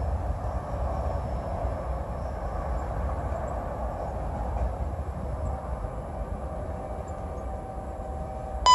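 Steady rumble of a CSX freight train rolling away, slowly fading. Just before the end, a short, loud radio tone as a scanner picks up the trackside defect detector's broadcast.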